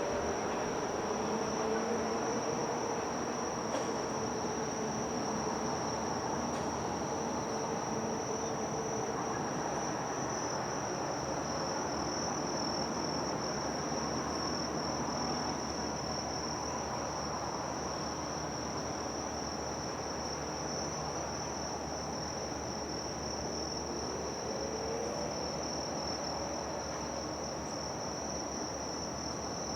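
Insects, likely crickets, calling in a steady, unbroken high-pitched drone, over a low hum of distant city and harbour noise.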